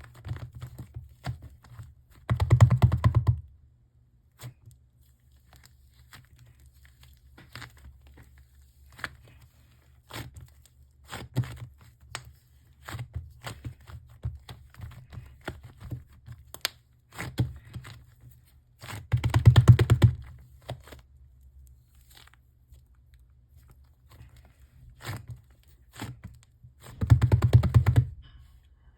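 Hands squeezing, pulling and tearing soft clay close to the microphone, with scattered small clicks and crinkles. Three louder bursts of handling noise come about two and a half seconds in, about two-thirds of the way through, and near the end.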